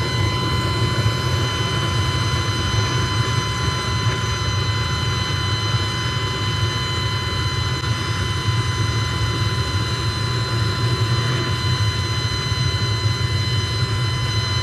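Factory machinery running steadily: a low hum with several steady high-pitched whining tones over it.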